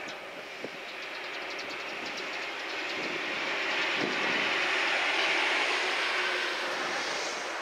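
Electric train running past close by, its running noise swelling to a peak about five seconds in and then fading, with a run of rapid wheel clicks over rail joints between one and two seconds in.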